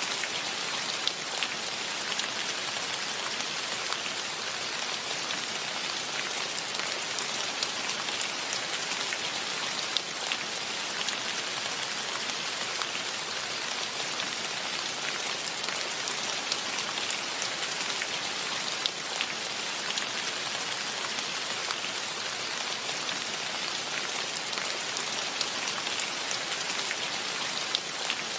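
Steady rain falling, a dense even hiss with many close drop ticks scattered through it.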